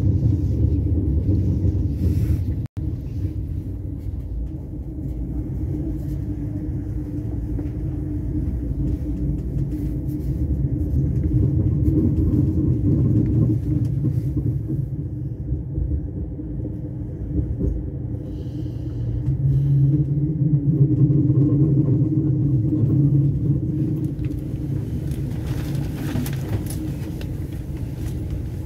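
Steady low rumble of a train running, heard from on board. The sound cuts out for an instant about three seconds in, and a low hum swells and fades again about twenty seconds in.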